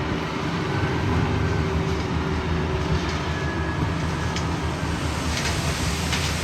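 Heavy diesel paving equipment running steadily with a deep engine drone, with a few short sharp clicks or scrapes about two thirds of the way in.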